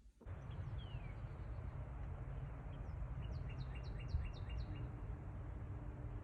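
A bird singing: one falling whistle about a second in, then a quick run of about six falling notes a little past three seconds in, over a steady low outdoor rumble.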